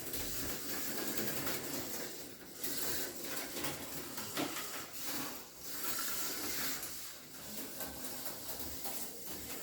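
HO-scale slot car running laps on plastic track: small electric motor whirring and tires and pickup shoes hissing on the rails. The sound swells and dips every second or two as the car goes around.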